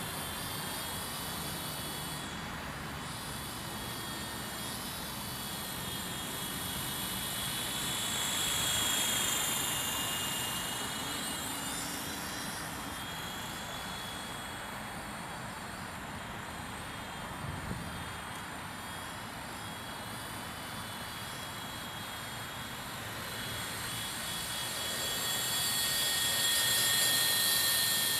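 WLtoys Sky Dancer single-blade RC helicopter in flight: its electric motor and rotor make a steady high whine that grows louder twice, about a third of the way in and again near the end, as it comes closer.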